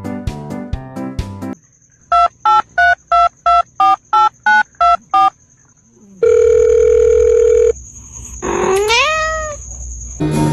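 Telephone keypad tones: about nine short two-tone beeps in an even rhythm as a number is dialled, then a steady tone lasting about a second and a half. Near the end comes a single call that rises and then falls in pitch, under a faint high steady whine. Plucked music plays at the start and again at the very end.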